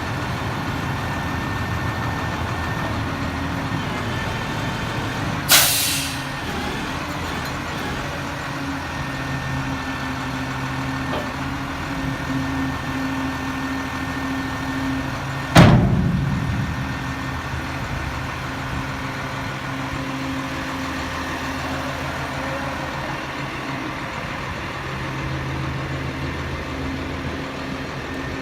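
Sterling grapple truck's Cummins six-cylinder turbo diesel idling steadily. A short hiss of released air comes about five and a half seconds in, and a loud clunk with a brief low ring about fifteen and a half seconds in.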